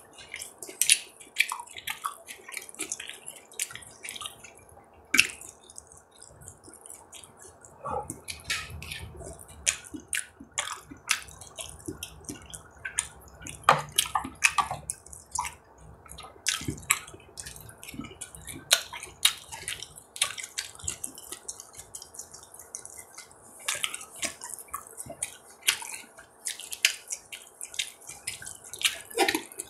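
Close-miked wet chewing of grilled beef rib meat: irregular sharp mouth clicks and smacks, with a few soft low thuds.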